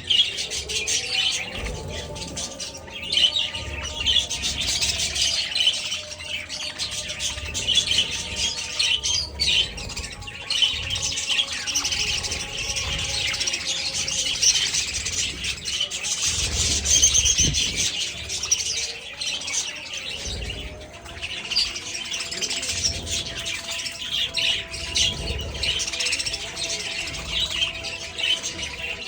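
A large flock of budgerigars chattering and chirping all at once: a dense, continuous mass of overlapping high chirps and squawks.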